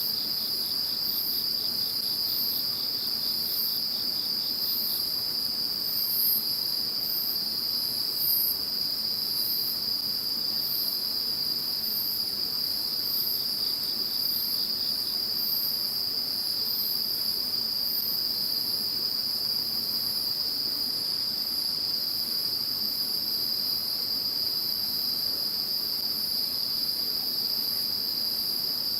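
Chorus of crickets and other insects calling. A continuous high trill runs underneath, a faster pulsing trill joins in for the first few seconds and again about halfway, and very high chirps repeat about once a second.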